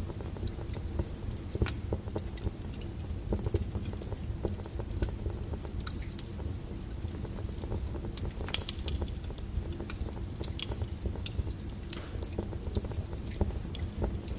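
Wood fire burning in a fireplace: a steady low rumble of flames with irregular crackles and pops from the burning logs, a brief flurry of sharper pops about eight seconds in.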